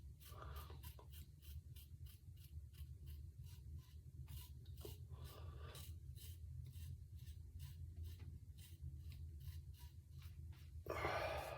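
Synthetic shaving brush working shave-soap lather: a soft, rhythmic, scratchy swishing of bristles at about three strokes a second. A louder rush of noise comes near the end.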